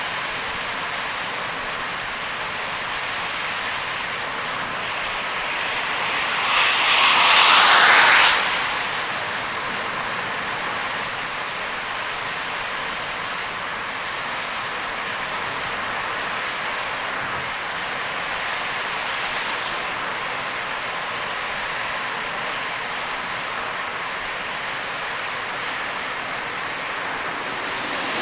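Steady rushing noise of a car driving in heavy rain: tyres hissing on a wet road with rain on the car. About seven seconds in, a louder whoosh swells and fades over roughly two seconds.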